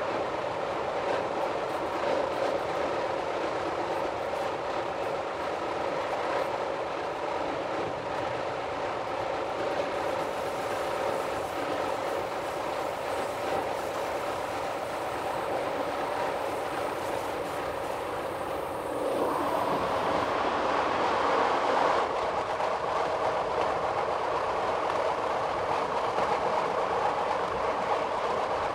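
Metre-gauge electric passenger train running along the track, heard from the driver's cab: a steady rolling rumble with a humming whine. About two-thirds of the way through it grows louder and brighter.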